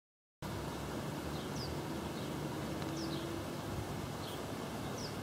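A bird chirping repeatedly outdoors, short high notes that fall in pitch, about one every second, over a steady background hiss. A faint low hum is heard briefly in the middle.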